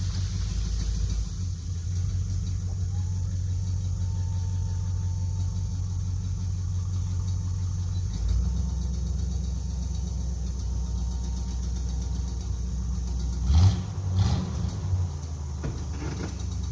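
A vehicle engine running steadily at a low pitch. Its note shifts a couple of times, and about three-quarters of the way through there is a brief rev with some clatter.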